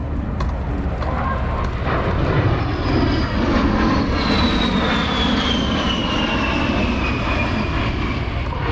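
A-10 Thunderbolt II's twin TF34 turbofans on a low pass, a loud jet rumble with a high whine that falls steadily in pitch from about four seconds in as the jet goes by.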